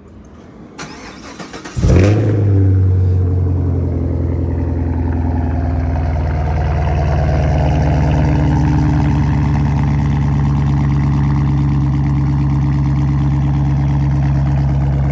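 Straight-piped 2023 Chevrolet Camaro 2SS's 6.2-litre V8 cranking briefly, firing about two seconds in with a loud flare, then settling into a steady idle.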